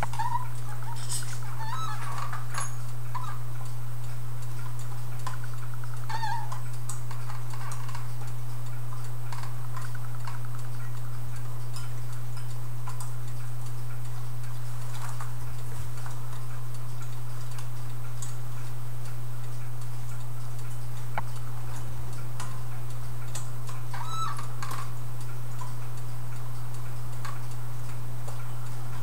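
A steady low hum with scattered small clicks and metallic taps and a few short squeaks, from clock parts being handled during the disassembly of an antique clock.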